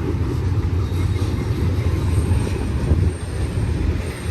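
Double-stack intermodal freight cars rolling past on the main line: a steady low rumble of steel wheels on rail.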